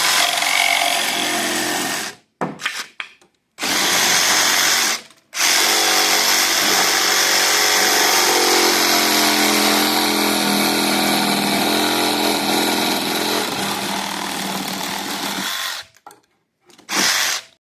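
Power saw cutting an angle through the ramp's wooden framing: several short runs, then one long cut of about ten seconds, with stops in between. The motor's pitch wavers as it works through the wood.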